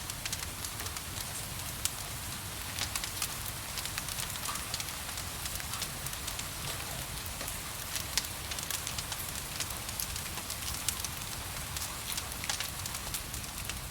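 Wood fire crackling in a fireplace, with frequent sharp pops scattered over a steady hiss of gentle rain and a low rumble.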